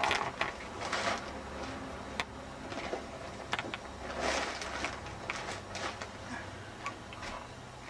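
Scattered light knocks, clicks and rustling as water-swollen FloodSax gel flood bags are handled and set down, with a louder rustle about a second in and another around four seconds in.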